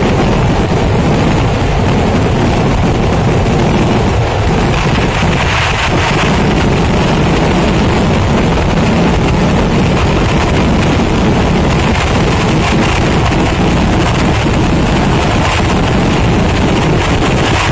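Kerala temple fireworks (vedikettu) finale: a dense, unbroken barrage of firecrackers and shells fired from the ground. The blasts merge into one steady, loud noise with no separate bangs.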